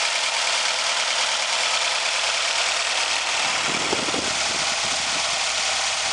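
Nissan X-Trail's QR25 2.5-litre four-cylinder petrol engine idling steadily. A brief low rumble rises under it about midway.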